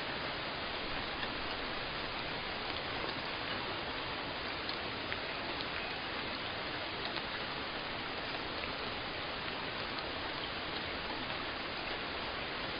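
Steady rain falling, an even hiss of rainfall with scattered individual drop ticks.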